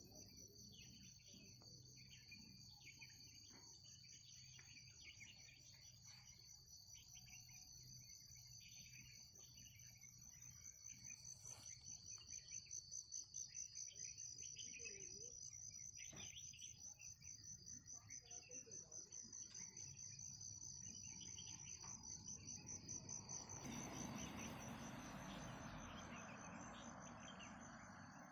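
Insects trilling in a steady, high, rapidly pulsing chorus, with scattered short chirps. About 24 seconds in, a broad rushing noise comes in and stays to the end.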